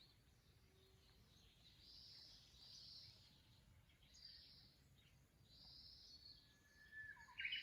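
Near silence with faint bird calls, short high chirps repeated every second or two.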